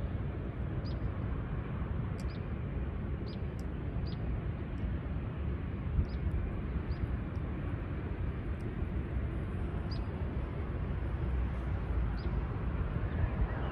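Low steady rumble of open-air riverside ambience, with a small bird giving short, high chirps now and then, about eight in all.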